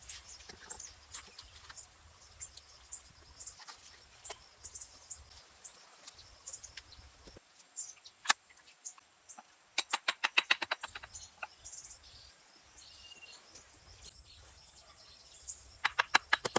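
Outdoor ambience with birds chirping high and scattered sharp clicks, including a quick run of clicks about ten seconds in and another near the end.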